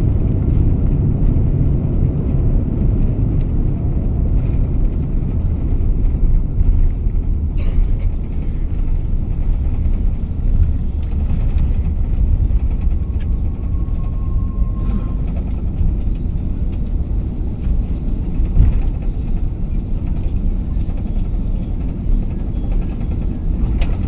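Steady low rumble of an Airbus A350 cabin heard from a window seat, with a few light clicks and a short faint tone about halfway through.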